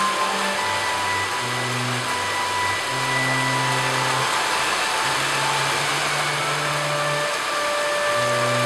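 Heavy rain pouring down in a steady hiss, with slow organ music of long held chords over it.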